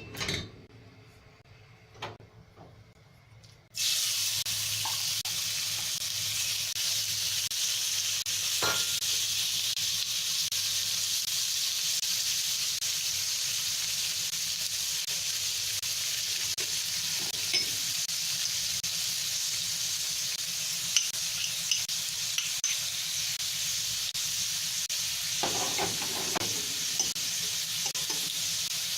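A few light clicks, then about four seconds in food goes into a hot oiled pan and starts sizzling steadily as it is stir-fried. There are occasional clicks and scrapes of the utensil against the pan, with a short cluster of knocks near the end.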